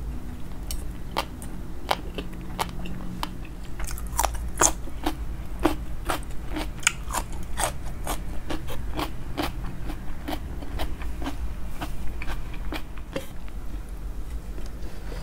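Close-miked crunching and chewing of green papaya salad (som tum): a quick, irregular run of crisp crunches that is thickest in the middle, over a steady low hum.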